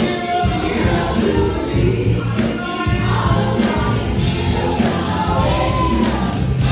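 Gospel music: a choir singing over a band with a strong bass line and steady percussion.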